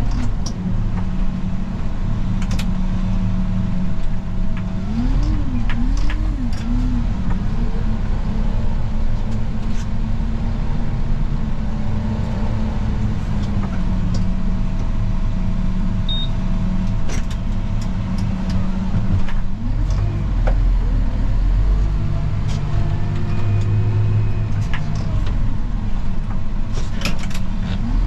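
Snow plow vehicle's engine running steadily, its pitch rising and falling now and then, with scattered clicks and knocks.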